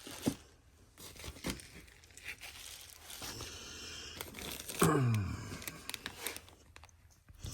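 Packaging crinkling and tearing as a parcel is opened and handled, with scattered clicks and taps. A brief low voice sound, falling in pitch, about five seconds in.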